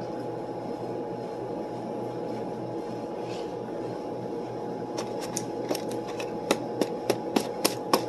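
Steady room hum with a thin steady tone under it. From about five seconds in, a run of about ten short, sharp mouth smacks and clicks from chewing food.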